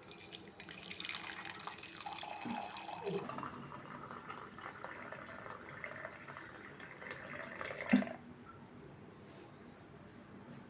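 Tap water running into a sink for about eight seconds, then stopping, with a sharp knock as it ends.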